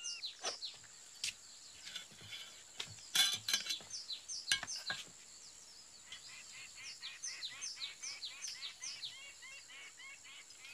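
Jungle ambience of small birds chirping in quick, repeated falling calls. A few sharp knocks and rattles come around three seconds in and again at about four and a half seconds.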